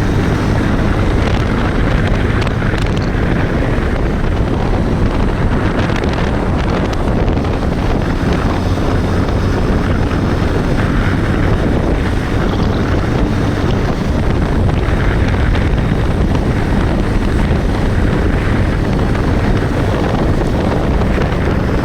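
Steady wind noise buffeting the microphone on a moving Bajaj Pulsar 125 motorcycle, with the bike's single-cylinder engine running underneath.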